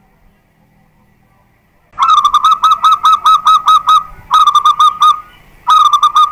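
Zebra dove (perkutut) singing: about two seconds in, a loud, fast run of short repeated notes, about four or five a second, then two shorter runs after brief pauses, the last cut off at the end.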